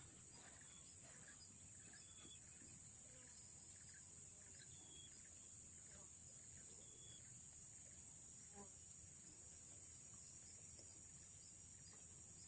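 Near silence with a faint, steady, high-pitched insect chorus, crickets trilling without a break.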